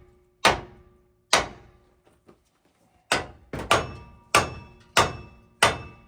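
Hammer blows on a steel steering spindle, striking it to shock a stuck steering-linkage end loose from its tapered seat. There are two blows, a pause, then six more in quicker succession, each ringing briefly.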